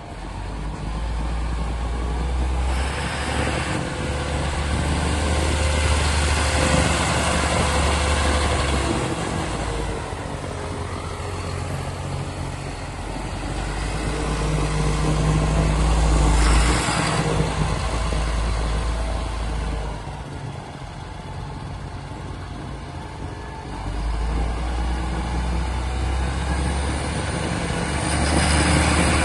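John Deere 7930 tractor's diesel engine running, getting louder and quieter in stretches as engine speed changes. It is loudest at about a third of the way in, just past the middle, and again near the end.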